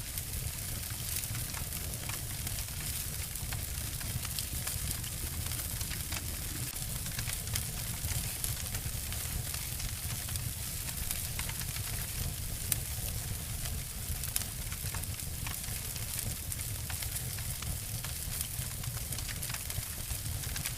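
Two wood fires burning, crackling and snapping constantly over a steady hiss and low rumble. Two louder snaps come a little past the middle.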